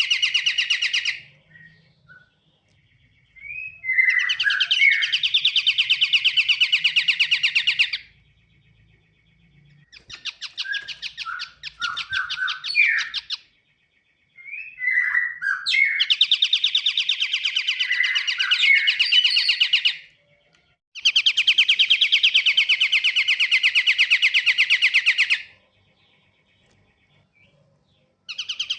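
Kapasan kemiri (pied triller) song: fast, buzzy trills in bouts of about four to five seconds, separated by short pauses and a few brief downslurred notes, as used in a bird-lure recording.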